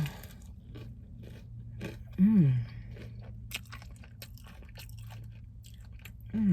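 Close-up eating of crispy fried chicken: repeated crunching bites and chewing, with a short falling "mm" hum about two seconds in.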